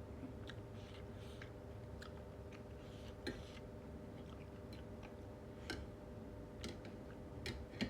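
A person chewing food with the mouth close to the microphone: soft, irregular wet clicks and smacks, a few sharper ones near the middle and end, over a faint steady hum.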